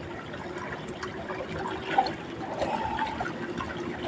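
Water trickling and splashing, with scattered small knocks and one sharper knock about two seconds in.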